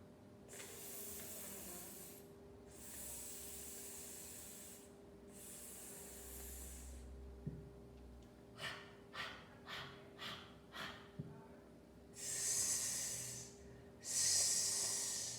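A woman's voice making voiceless phonics sounds. First a long "fff" hiss said three times, then a run of about six short clipped consonant bursts, then two loud, sharp "sss"-like hisses near the end.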